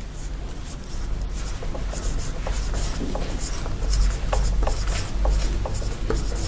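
Someone writing by hand on a board: a run of short, scratchy pen strokes, with a steady low hum underneath.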